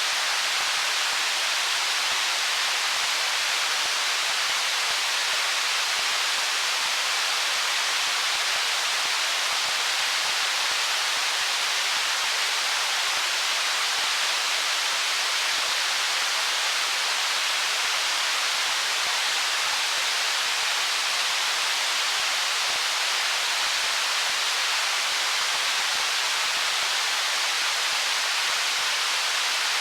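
Stream water flowing over stones: a steady, even rush without separate splashes or changes.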